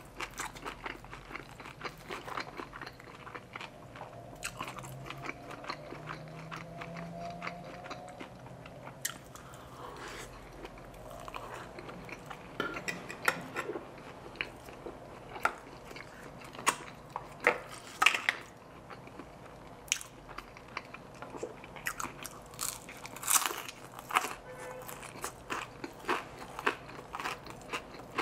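Close-miked eating sounds: a man chewing and crunching loaded carne asada fries and fried food, with many short crisp crunches. The crunches grow louder and more frequent in the second half.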